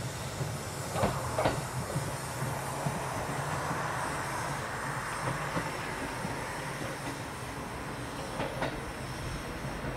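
Train running along the track with a steady rumble, and a few sharp clacks of the wheels over rail joints.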